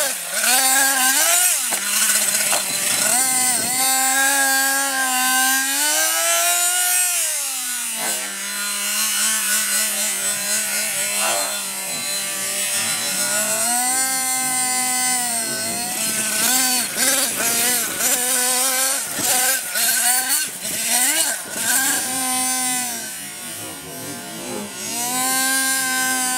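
Small nitro engine of an RC monster truck revving up and falling back again and again as the throttle is worked, settling to a steady idle between bursts, with the longest idle about a third of the way in.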